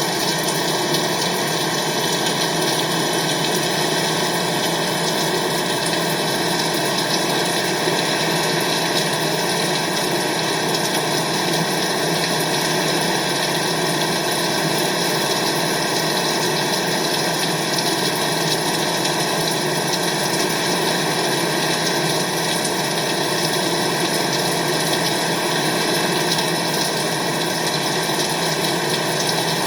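Steady rain, a constant dense hiss that does not change.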